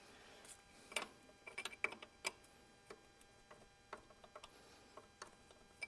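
Faint, irregular light clicks and taps of a hand wrench and tools being handled against metal, about a dozen scattered ticks with quiet between them.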